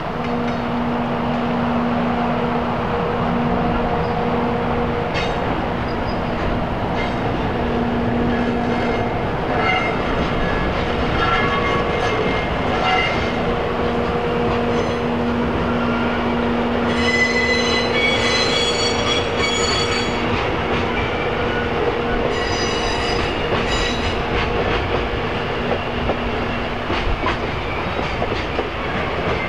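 Freight train hauled by a JR EF64 electric locomotive passing: a steady low hum with the wagons clattering over rail joints. Bursts of high-pitched wheel squeal come about two-thirds of the way through and again a few seconds later.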